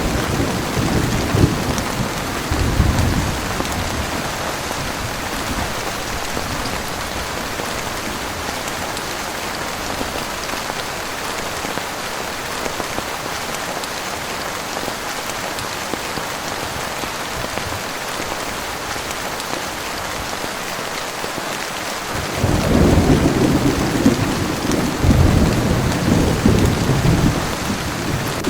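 Heavy rain falling steadily, with thunder rumbling low near the start and again for several seconds from about 22 seconds in.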